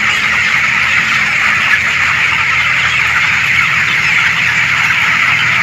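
A large flock of poultry birds in a shed calling all at once in a dense, continuous chatter, with a steady low hum underneath.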